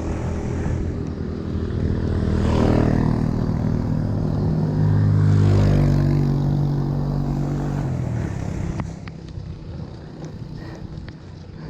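A motor vehicle's engine passing by, growing louder to a peak about halfway through and then fading away about two-thirds of the way in.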